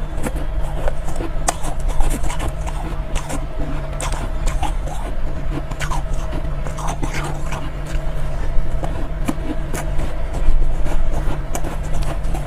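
Close-miked crunching and chewing of soft, powdery ice: a dense run of quick crisp crunches over a steady low hum.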